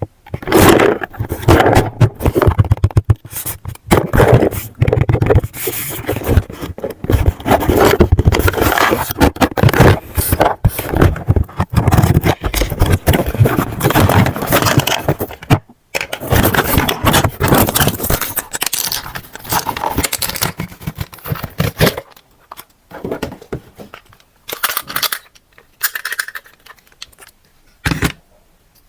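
Toy packaging being handled and opened: dense, irregular scraping, crackling and tearing of plastic and cardboard. After about 22 seconds it thins out to scattered short clicks and knocks.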